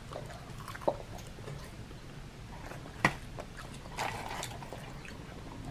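Close-miked chewing of a fried chicken tender, with a few sharp wet mouth clicks and squishes. A short paper rustle comes about four seconds in.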